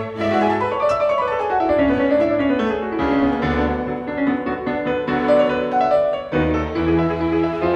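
Background music: piano playing classical-style runs of notes that rise and fall, then held chords.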